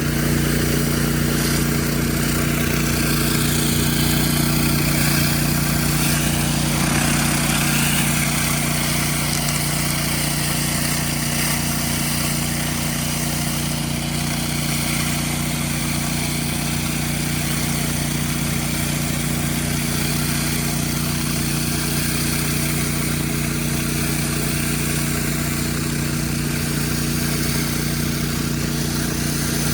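Petrol engine of an 8 GPM pressure washer running steadily at constant speed, with the hiss of high-pressure water spraying.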